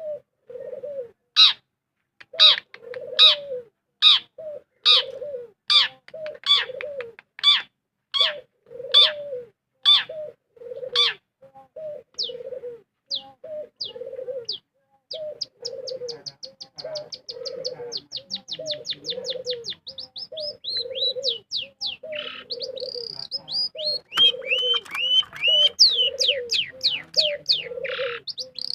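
A bird called burung toet calling. A low hoot repeats about once a second throughout. For the first half, sharp high downward notes alternate with the hoots, and in the second half these give way to fast, high trills and chatter.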